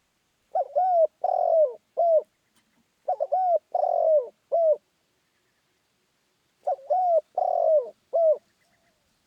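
Spotted dove cooing: three phrases of about four arching coos each, the third coo in each phrase the longest, with short pauses between the phrases.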